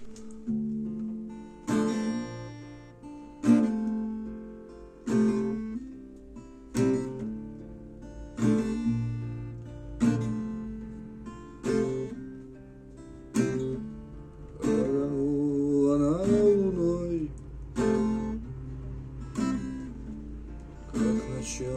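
Acoustic guitar playing a song intro: chords struck about every second and a half to two seconds, each left to ring and fade. Between about fifteen and seventeen seconds in, several notes glide up and down.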